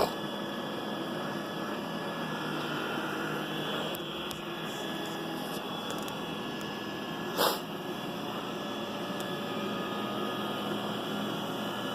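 iRobot Roomba 960 robot vacuum running, a steady hum, with one short sharp sound a little past the middle.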